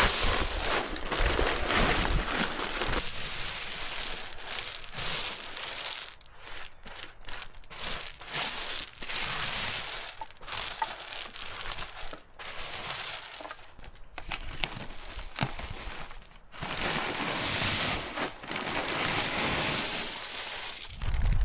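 Irregular rustling and crunching, like dry material being handled or crushed, with many short crackles. It thins out and breaks into separate crackles through the middle, then grows fuller again near the end.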